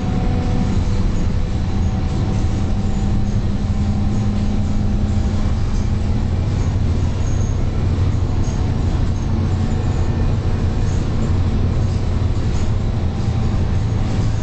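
Scania K230UB bus's diesel engine running steadily, a continuous low drone with road noise as the bus drives.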